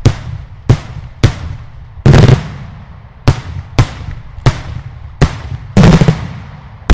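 Loud daylight fireworks exploding: about ten sharp bangs in an irregular string, roughly one every half second to second, each trailing off in echo. Two heavier, longer blasts come about two seconds in and near the end.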